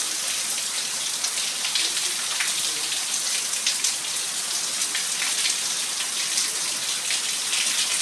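Heavy rain pouring steadily, with water streaming off a roof edge and splashing: a dense, even hiss dotted with many sharp drop splashes.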